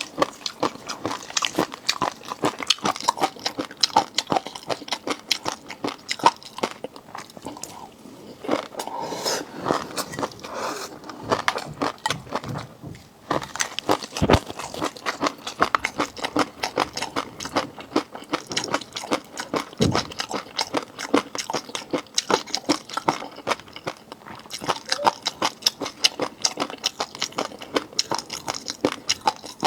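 Close-miked chewing and biting of raw seafood: a dense run of crisp, wet clicks and crunches, with two louder knocks, one about halfway through and one a few seconds later.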